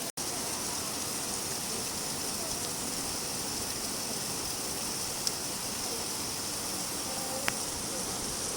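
Steady rainfall, an even hiss, with a couple of faint ticks in the second half. The sound cuts out for an instant just after the start.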